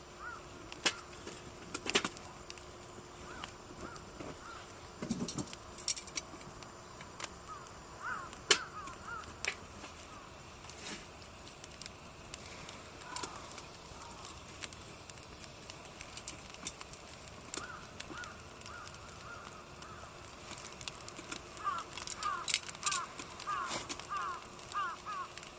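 Wood fire crackling with scattered sharp pops and snaps, while a bird calls in short rapid runs of notes that come thickest near the end.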